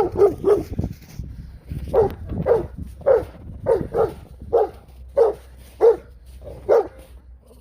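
Dog barking repeatedly, about a dozen short barks: a quick few, a pause of about a second, then a steady run of roughly one to two barks a second that stops shortly before the end.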